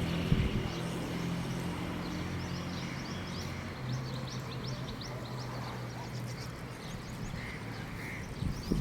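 Many small birds chirping in quick, short notes, over a low steady hum.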